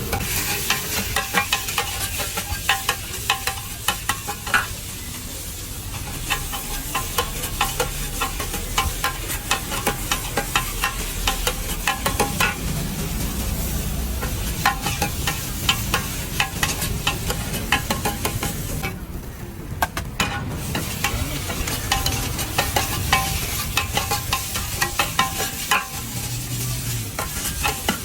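Pad Thai frying in a hot pan, with a metal spatula clattering and scraping against the pan over a steady sizzle. The sizzle drops away briefly about two-thirds of the way through.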